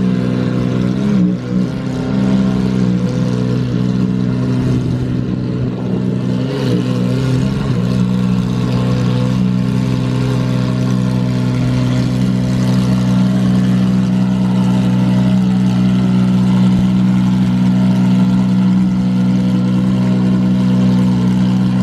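Car engine running at a steady speed, holding an even pitch, with small changes in note a couple of times early on.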